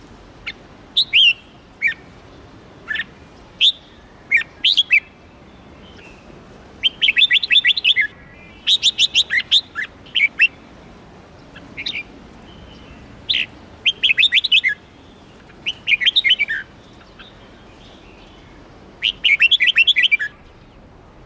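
Red-whiskered bulbul singing: short phrases of quick chirps, some in fast runs of several notes, separated by brief pauses.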